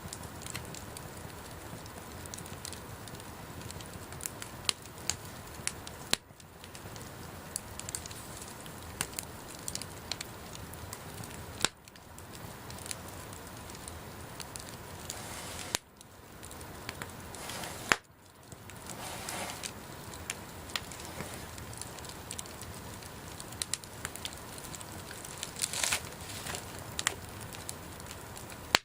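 Wood bonfire burning: a steady hiss with frequent sharp crackles and pops.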